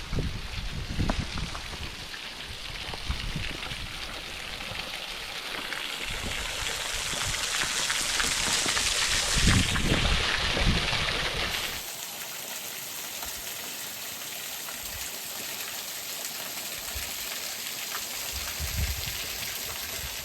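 Rushing water of a small waterfall on a burn: a steady hiss that swells to its loudest about nine seconds in, then drops abruptly to a quieter, steadier hiss about two-thirds of the way through. Low thuds come in the first few seconds.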